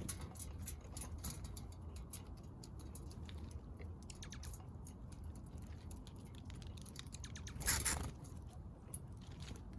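Small backyard birds pecking at seed: many quick, irregular light taps, with a brief, louder rush of noise a little under 8 seconds in.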